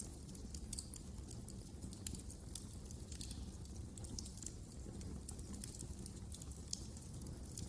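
Wood fire crackling in a fireplace: frequent small, irregular snaps and pops over a low, steady rumble.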